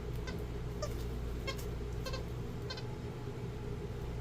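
Jack Russell terrier puppy whimpering: short, high-pitched whines repeated about every half second.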